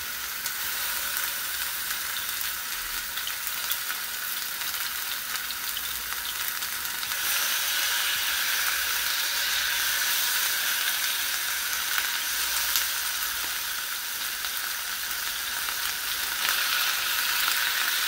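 Marinated chicken breast strips sizzling in hot oil in a frying pan, the sizzle growing louder about seven seconds in and again near the end as more strips go into the pan.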